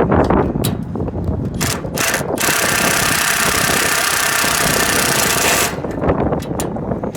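Power drill running steadily for about three seconds, with clicks and knocks of handling before it, plausibly backing out the screws holding the condenser fan motor's casing.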